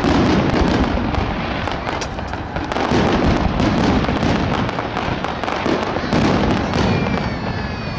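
Fireworks finale barrage: a dense, continuous crackle of many shell bursts and reports over a low rumble, swelling in waves every few seconds, with high whistling tones near the end.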